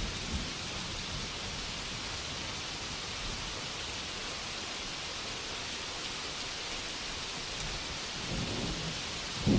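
Steady rainfall, an even hiss. A low rumble of thunder rises near the end.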